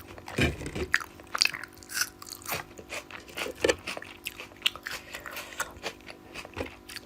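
Close-miked eating: a person chewing and biting, with irregular crisp crunches and wet mouth clicks.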